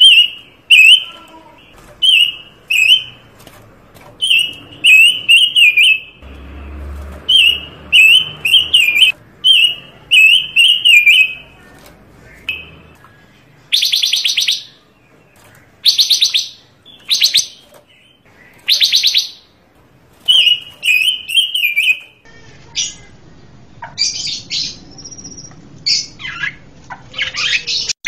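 A panca warna songbird singing a varied song: short whistled phrases repeated in quick runs, then bursts of fast trills about halfway through, then a string of sharp, varied notes. A brief low rumble sits under the song early on.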